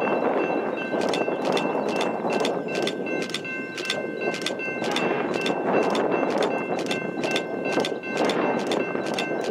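Train passing with a steady rumble, and sharp regular clicks about three times a second.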